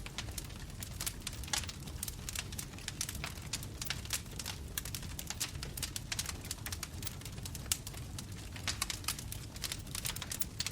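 Bonfire crackling: frequent irregular sharp pops and snaps from burning wood over a steady low rumble of the flames.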